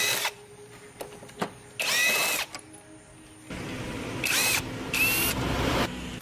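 An electric power tool run in short trigger bursts of about half a second, four in all, its motor whine dipping and rising with each pull. In the second half a steady rushing noise runs underneath.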